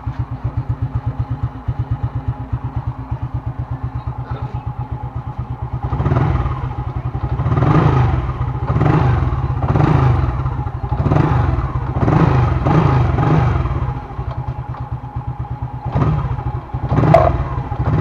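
Honda XRM 110's single-cylinder four-stroke engine idling with an even putter, then revved in a run of short throttle blips about a second apart, dropping back to idle between them. It blips twice more near the end. The engine is running freely after a hard-starting fault was fixed by cleaning the spark plug.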